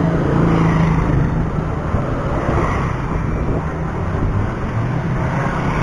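Road traffic noise: vehicles running on the road close by, with a steady low engine hum under a rushing noise.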